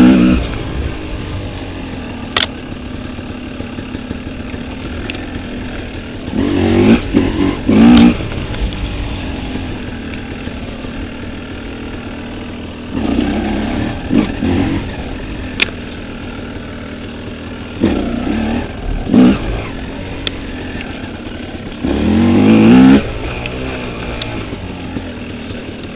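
Off-road motorcycle riding a rocky trail, its engine running steadily with five short bursts of throttle. A few sharp clicks and knocks, such as stones striking the bike, cut through the engine sound.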